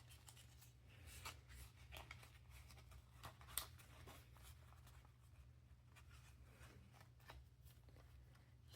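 Near silence with faint, scattered paper rustles and light taps: paper cash and a budget envelope being handled, over a low steady hum.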